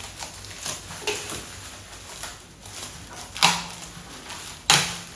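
Handling noises from a microwave oven being turned and moved: a few knocks and rustles, with two louder thumps about three and a half seconds and nearly five seconds in.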